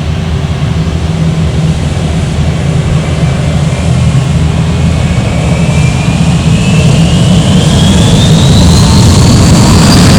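Airbus A321's IAE V2500 turbofan engines spooling up for takeoff. A low rumble comes with a thin whine that climbs steadily in pitch through the second half, and the sound grows louder.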